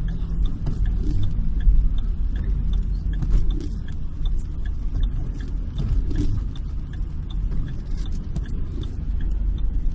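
Steady low vehicle rumble with faint, scattered light ticks.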